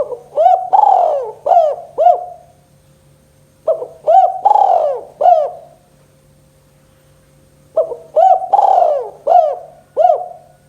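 Spotted dove (tekukur) cooing: three phrases of about five arched coos each, about four seconds apart, in the song type that dove keepers call 'kuk 2'.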